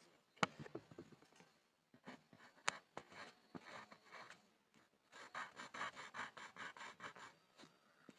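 Pencil scribbling on a board: a few sharp taps and scratchy strokes, then a quick back-and-forth run of about six strokes a second for a couple of seconds.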